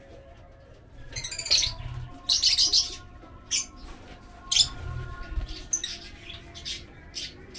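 Lovebirds chirping: a string of short, shrill chirps at an irregular pace, starting about a second in.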